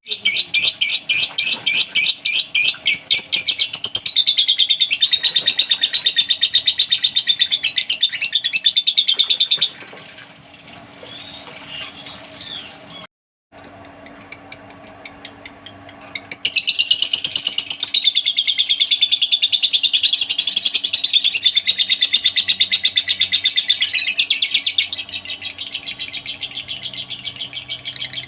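Lovebird giving long 'ngekek' chattering trills: runs of very fast, high-pitched repeated notes. They soften for a few seconds in the middle and cut out briefly before starting again.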